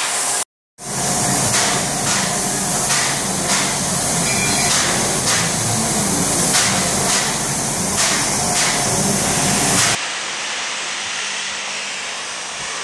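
Steam locomotive under way, chuffing about one and a half beats a second over a loud steam hiss. After about ten seconds it cuts to a quieter, steady low rumble and hum.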